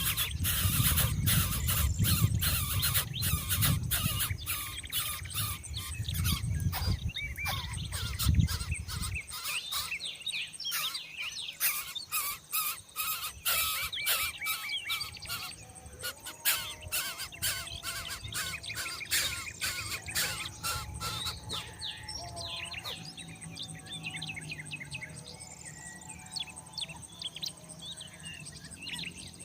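Birds chirping in rapid, dense short calls over a steady high insect drone, with a low rumble during roughly the first nine seconds that then stops.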